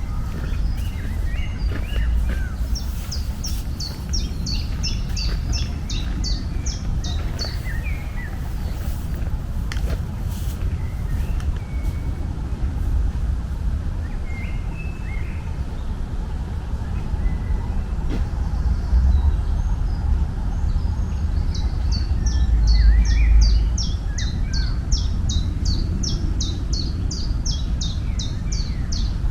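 Songbird singing: two long runs of quick, high, repeated down-slurred notes, a few a second, with softer scattered chirps from other birds, over a steady low rumble.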